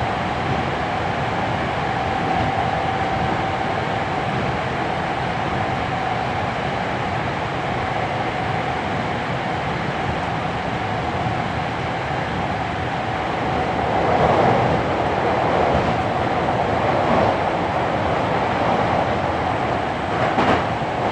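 Interior running sound of a Hankyu 7300 series electric train with field-chopper-controlled DC motors, picked up at floor level: steady wheel-and-rail rumble with a held mid-pitched hum. The rumble swells about two-thirds of the way in, and there is a sharp knock near the end.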